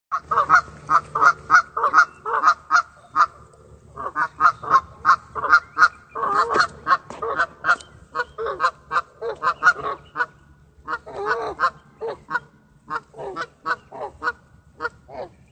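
A flock of geese honking: many short calls, several a second and overlapping, with brief lulls and fewer calls toward the end.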